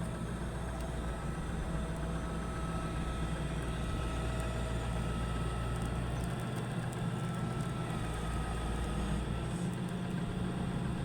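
A steady low engine hum, its deepest part dropping away briefly twice.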